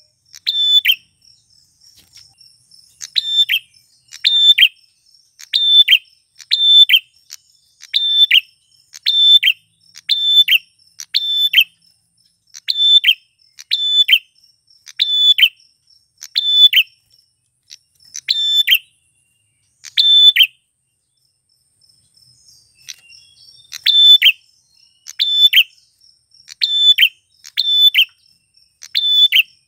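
Male prinia (prenjak klawu) calling: sharp, loud chirps about once a second, often in quick pairs, with a pause of a few seconds about two-thirds of the way in. A faint steady insect trill runs underneath.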